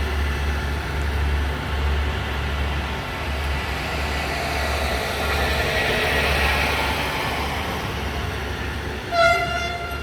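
DPKr3 diesel multiple unit running, its noise swelling toward the middle, then a short, loud blast of its typhon horn about nine seconds in.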